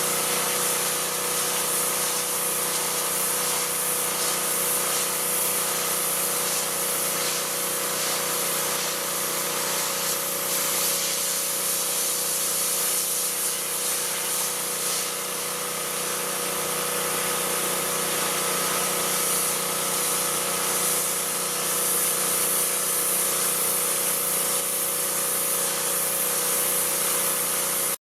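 EvoPower EPW3100-2 7 hp petrol pressure washer running steadily under load, with the engine's hum under the loud hiss of the high-pressure water jet spraying.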